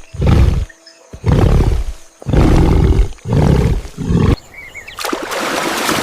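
A large animal calling loudly four times in quick succession, each call low and about a second long. About five seconds in, a steady rushing noise like surf takes over.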